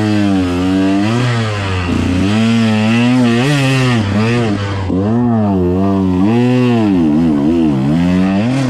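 KTM 125XC's single-cylinder two-stroke dirt-bike engine under riding load, its revs climbing and dropping again and again as the throttle is worked. There are quick short blips near the end.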